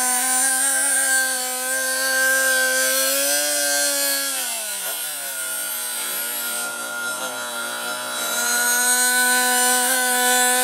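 Small two-stroke nitro glow engine of an RC monster truck running at high revs with a steady, buzzy pitch. About four seconds in the revs drop and the pitch glides down and turns uneven. Shortly after eight seconds it climbs back to the same high steady pitch.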